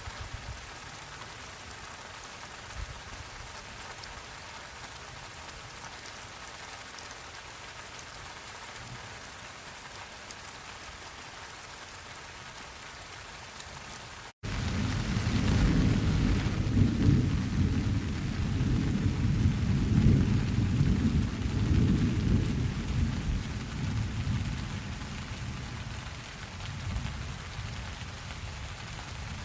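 Steady rain falling. About halfway through, a long low rumble of thunder starts just after a split-second dropout in the sound, then slowly fades over about ten seconds while the rain goes on.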